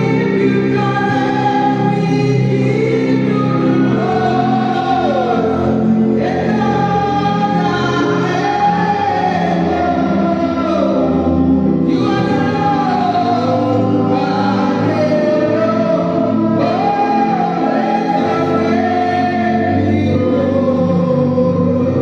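Gospel choir singing, holding long notes that slide slowly from one pitch to the next.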